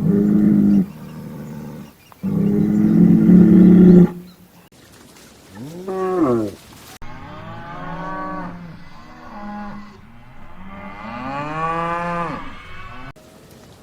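Cattle mooing, a series of separate calls. First come two loud, low, steady moos, then higher calls that rise and fall in pitch, and near the end a long call that swells up and sinks down again.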